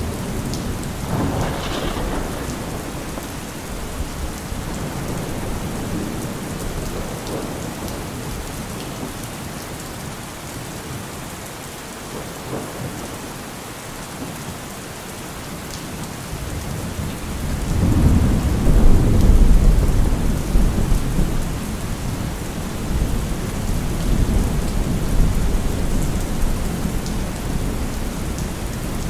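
Heavy rain falling steadily, with thunder: a short crack about two seconds in, then a deep rumble that swells a little past halfway and keeps rolling.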